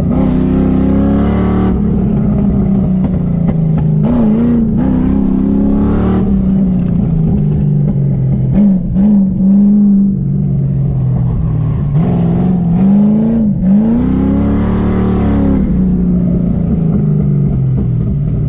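Fox-body Ford Mustang engine heard from inside the cabin under hard autocross driving. The revs climb and fall over and over with the throttle, with several quick swoops and dips in pitch through the turns.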